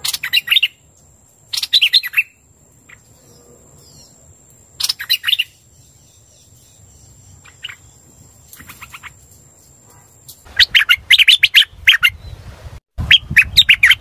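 Hoành hoạch bird calling in repeated short bursts of fast, high chirping notes, several bursts a few seconds apart. The bursts come louder and more closely packed in the last few seconds.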